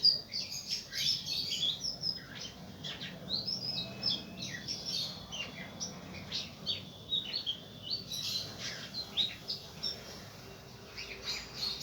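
Songbirds chirping and twittering: a busy stream of short, high chirps and quick sweeping notes, many close together and some overlapping.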